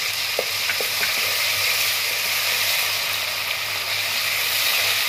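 Sliced onions and ginger-garlic paste sizzling steadily in hot oil, stirred with a wooden spatula, with a couple of light knocks of the spatula against the pan about half a second in.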